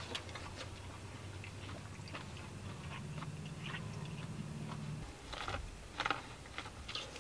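A man chewing and biting into grilled food: faint mouth clicks and chewing, with a few sharper crunching bites near the end as he bites into a cob of grilled corn.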